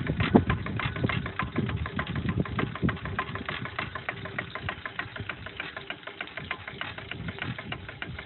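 Small pre-1900s rotary-valve steam engine running on steam, with a steady rapid ticking of about five beats a second and heavier low thumps in the first few seconds.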